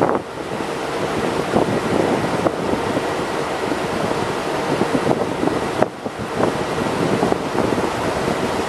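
Wind buffeting the microphone on the deck of a moving river cruise motor ship, over the rush of water along the hull. The noise is steady, with two brief lulls, at the very start and about six seconds in.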